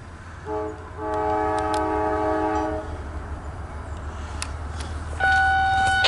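A diesel locomotive's multi-chime air horn sounds one short blast, then a long blast of about two seconds, over the low steady rumble of the passing coal train. Near the end a separate single steady tone starts abruptly and is louder than the horn.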